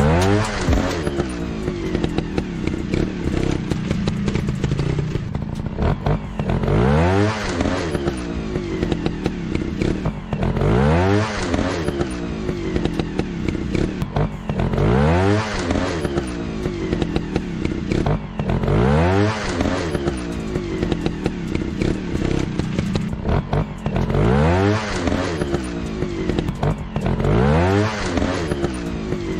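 Dirt bike engine revving up and back down over and over, about once every four seconds, with frequent short clicks in between.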